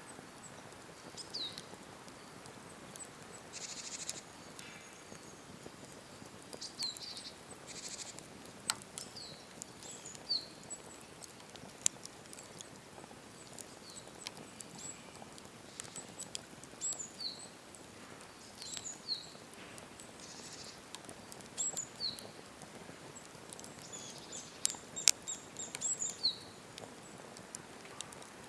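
Cedar-wood campfire crackling, with scattered sharp pops, the loudest about twelve seconds in and near the end. Small birds give short, high, downward-sliding chirps over it again and again.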